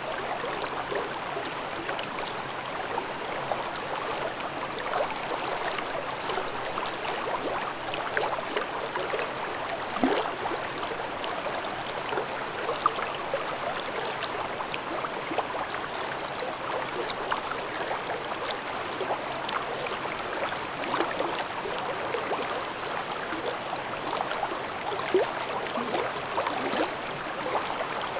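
Valley stream babbling over rocks: a steady rush of water flecked with many small gurgles and splashes.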